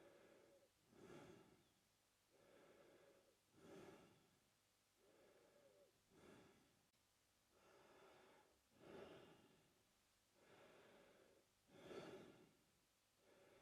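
A man breathing quietly and steadily through his mouth, about five slow in-and-out breaths. Each cycle lasts roughly two and a half seconds, with a sharper, louder swell followed by a flatter, longer one.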